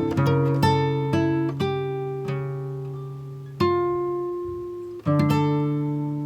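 Acoustic guitar music: single notes picked in quick succession, then chords struck about three and a half and five seconds in, each left to ring and fade.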